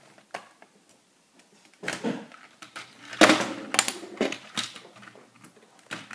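Plastic Lego pieces clicking and rattling as they are handled and pulled apart, in a few short bursts with scattered clicks between.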